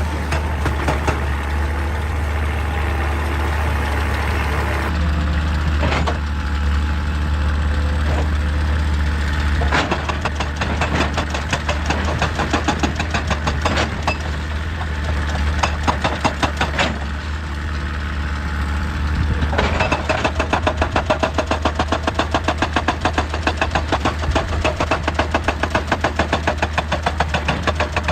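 Excavator diesel engine running steadily under a rapid, rhythmic hammering of a hydraulic rock breaker on stone, coming in short bursts at first and then as a fast, even run of several blows a second for the last third.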